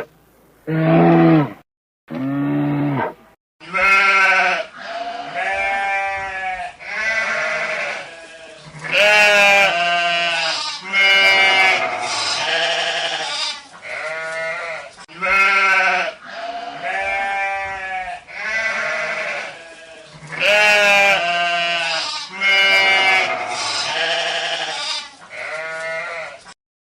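Sheep bleating over and over, about one call a second. Two lower calls come in the first three seconds, and then a run of many bleats, some overlapping, goes on almost to the end.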